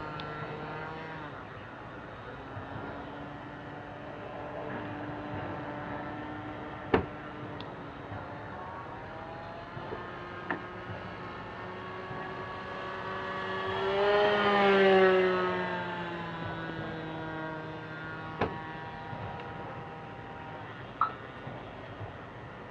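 Petrol engine of a single-propeller radio-controlled model aeroplane buzzing in flight, its pitch wavering as the throttle and distance change. It grows loudest as the plane passes close about two-thirds of the way through, then drops in pitch as it moves away. A few sharp clicks sound in between.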